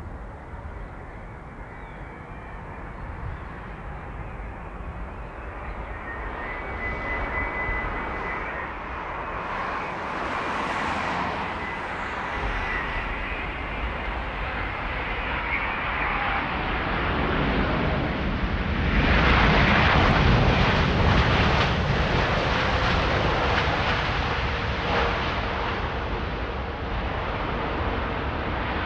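Jet airliner's engines, growing louder to a peak about two-thirds of the way through as the plane passes, then easing slightly, with a faint steady whine earlier on.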